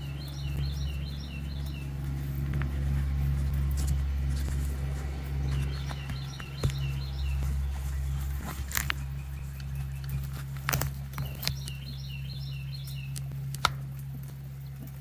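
A songbird repeats a short run of quick high chirps three times, about every five to six seconds, over a steady low rumble. Scattered sharp snaps and clicks fall in the second half.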